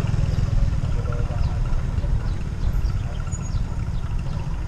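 Wind buffeting the microphone: a steady, loud low rumble, with faint short high chirps over it.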